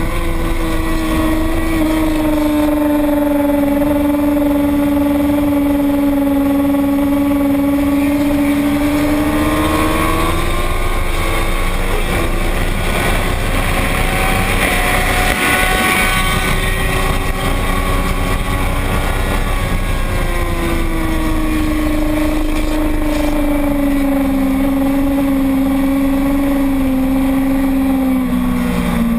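Motorcycle engine running hard with a steady rush of noise over it. Its pitch holds steady, climbs about ten seconds in, stays high, then falls back around twenty seconds in.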